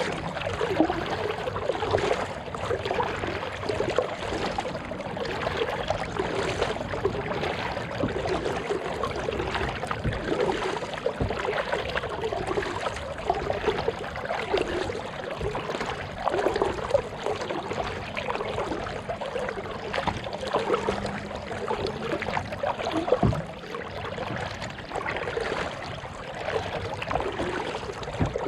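Kayak paddle strokes: water splashing and dripping off the paddle blades in a regular rhythm of about one stroke a second, with a few sharp knocks.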